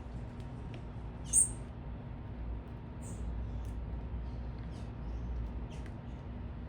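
Small birds chirping: one sharp, high chirp about a second and a half in, a second high call about three seconds in, and scattered faint short chirps, over a steady low rumble of city traffic.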